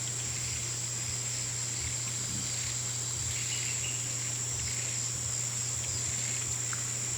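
Crickets chirring as a continuous high-pitched drone, over a steady low hum.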